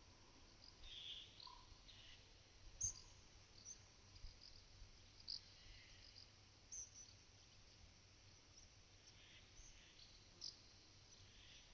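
Faint calls and chirps of small birds, with scattered short scratchy ticks as cows lick a mineral salt block; one sharper tick about three seconds in.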